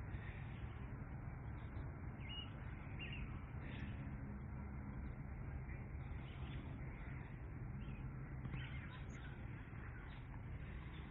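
Faint bird chirps, a few times, over a steady low rumble of open-air background noise.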